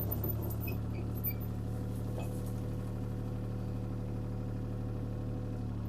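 CAT 303C CR mini excavator's diesel engine running steadily, with a faint steady whine joining in about a second and a half in and dropping away near the end.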